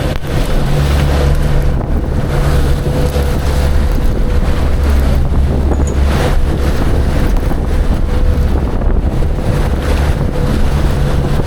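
A fishing boat's motor running steadily with a thin steady whine above its low drone, while wind buffets the microphone.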